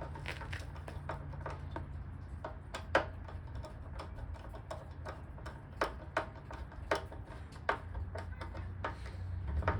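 Irregular light clicks and taps of parts being handled and fitted as the Briggs & Stratton mower's cleaned air filter is put back on, over a steady low hum; the engine is not running.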